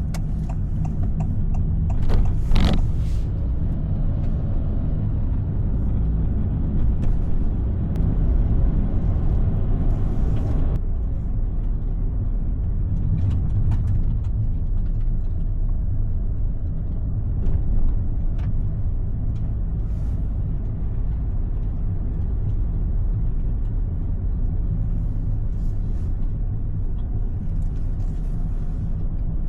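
Steady low rumble of a car driving, heard from inside the cabin, with a short louder noise a couple of seconds in.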